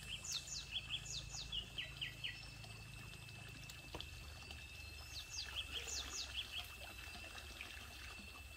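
A bird calling in two runs of quick, short falling notes, one at the start and another about five seconds in, over a steady high-pitched drone.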